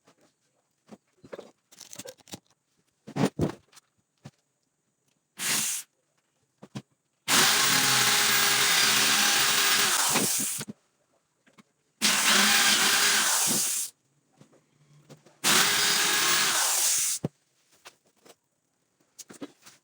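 Electric power tool run three times in short bursts, the first about three seconds long and the next two about two seconds each. Scattered knocks and clicks of handling wood and tools come between the runs.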